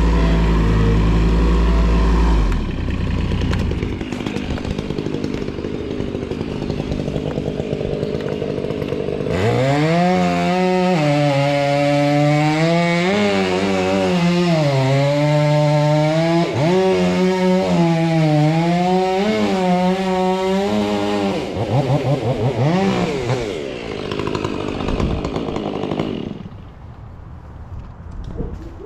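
Chainsaw cutting into a silver maple, its pitch rising and dipping over and over as the chain loads up in the wood and frees again, then dying away near the end. A heavier engine, the loader's, runs low and steady for the first couple of seconds.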